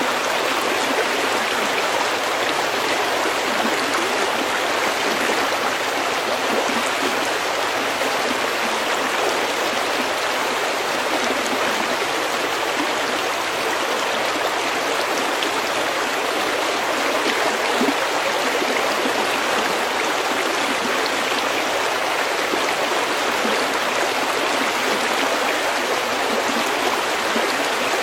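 Meltwater stream running over pebbles: a steady, even rush of flowing water with fine babbling, unchanging in level.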